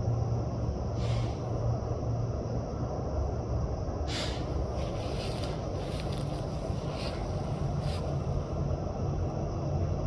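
A steady low rumbling hum, with a few short hissing rustles about a second in and several more between about four and eight seconds in.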